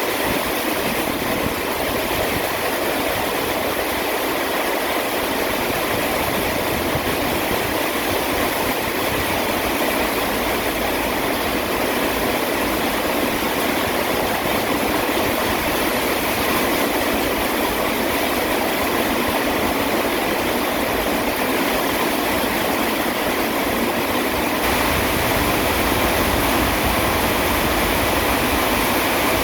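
Steady, heavy rain falling, an even rushing hiss that grows a little louder and deeper near the end.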